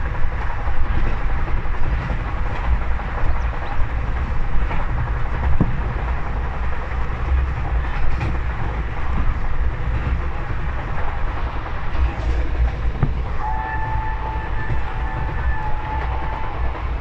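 Steady rumbling noise of a moving vehicle. Near the end a horn sounds one steady note for about three seconds, with a couple of brief breaks.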